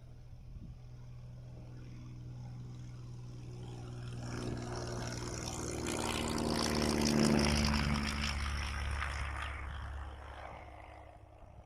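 Piper Pawnee 235 crop-duster's piston engine and propeller passing low: the drone builds for about seven seconds, its pitch falls as it goes by at its loudest, then it fades away.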